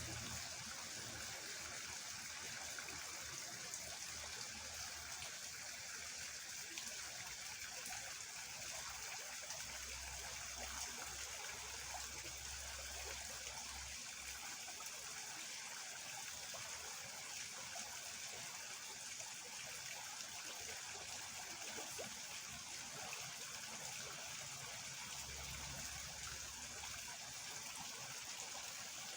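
Steady rush of fast-flowing water in a small ditch swollen by overnight rain.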